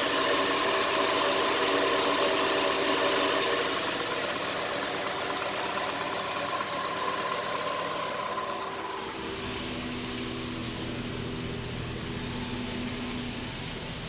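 2013 Nissan Sentra's four-cylinder engine idling steadily during an engine run test. Its note changes about nine seconds in, with a heavier low hum after that.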